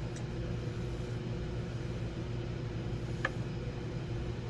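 Microwave oven running with a steady hum while it cooks, and two light clicks of a knife cutting cheese, near the start and about three seconds in.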